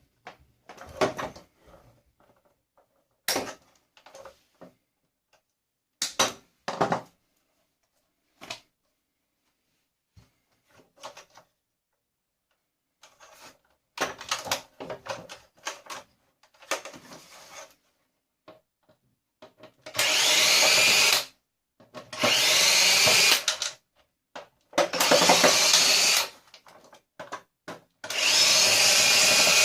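Power drill run in four short bursts, its motor spinning up at the start of each one, as screws are driven out of a vacuum cleaner's plastic housing. Scattered knocks and clicks of plastic parts being handled come before the drilling.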